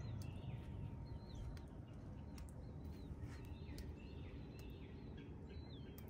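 Birds chirping repeatedly over a faint low hum. The low hum fades over the first couple of seconds as the 2006 Bard wall-mount heat pump winds down after shutting off.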